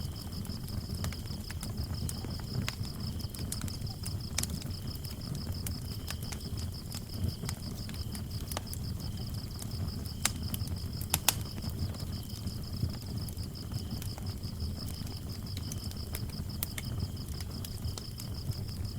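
Wood fire crackling with scattered sharp pops over a low rumble of flames, while crickets chirp in a steady fast trill, with a second, broken cricket trill.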